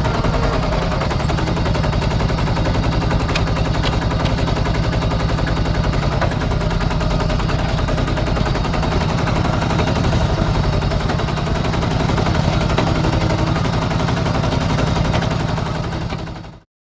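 Small Yanmar diesel engine of a home-built mini tractor power tiller running steadily with a rapid, even knocking beat. It cuts off abruptly near the end.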